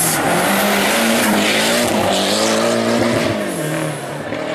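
Hill-climb race car engine running hard at high revs, its pitch rising and falling with the throttle and dropping about three and a half seconds in as the sound eases off. Brief high tyre squeal in the middle.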